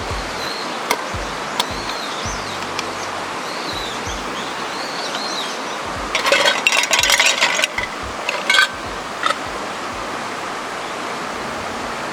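Steady rush of a mountain stream with short, repeated high chirps over it, and a burst of clinking and clattering about halfway through, with a last clink a second or so later.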